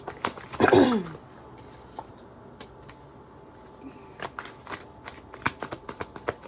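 Tarot cards being shuffled and handled: a brief loud rustle with a falling voice-like sound just under a second in, then a run of quick light card clicks and flicks in the second half.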